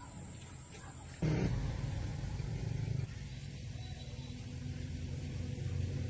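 Rebuilt old truck engine running with a steady low rumble, coming in suddenly about a second in.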